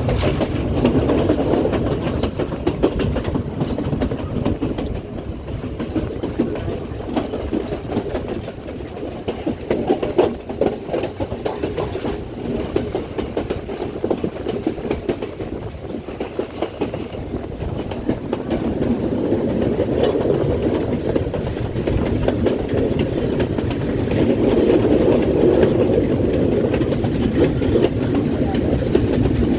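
Colombo–Badulla Night Mail train running on the rails: a steady low rumble with the clickety-clack of wheels over rail joints, growing louder in the last few seconds.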